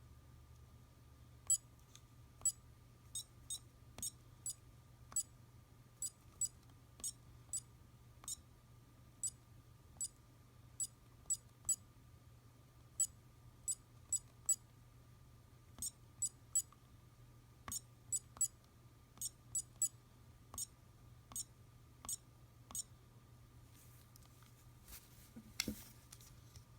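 Handheld Digimon Adventure tri Digivice toy giving off a long run of short, high-pitched clicks at an uneven pace, as its buttons are pressed over and over, over a faint steady hum. A brief rustle of handling comes near the end.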